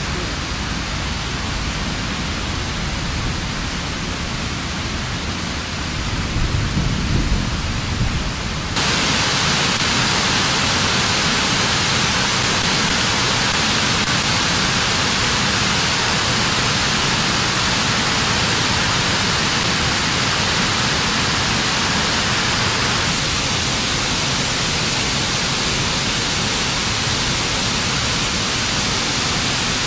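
A steady hiss with no tones in it. It swells with a low rumble, then about nine seconds in it steps up suddenly to a louder, brighter hiss that holds to the end.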